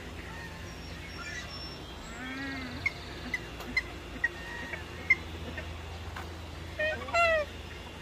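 Birds calling: a run of short, sharp chirps roughly half a second apart through the middle, a longer call a couple of seconds in, and a louder, longer call near the end, over a steady low background rumble.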